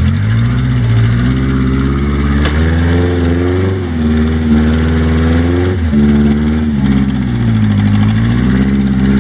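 Rock crawler's engine revving up and down under load, its pitch rising and falling several times as the throttle is worked, with a brief sharp knock about two and a half seconds in.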